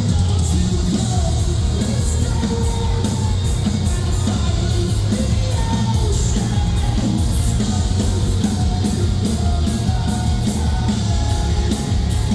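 Metalcore band playing live and loud: heavy distorted guitars, bass and pounding drums with crashing cymbals, with vocals over the top.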